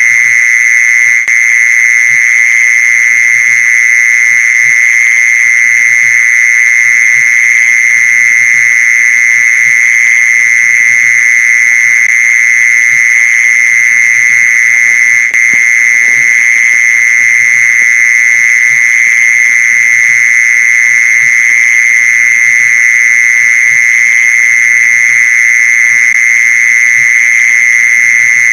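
Mole cricket song: one continuous, unbroken trill held at a steady high pitch, as used to lure mole crickets.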